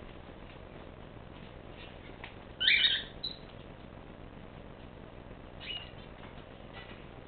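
A pet bird gives one loud call about two and a half seconds in, followed by a short call, with fainter chirps later on.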